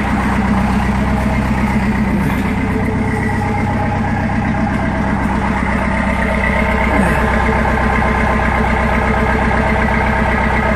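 Cummins 4BT four-cylinder turbo diesel idling steadily with a rapid diesel clatter, cold-started moments earlier at 20 degrees with no glow plugs or grid heater. A short falling chirp cuts in about two seconds in and again about seven seconds in.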